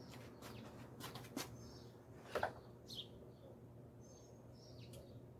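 Faint bird chirps at intervals, with a few sharp clicks and knocks about one to two and a half seconds in and a low steady hum underneath.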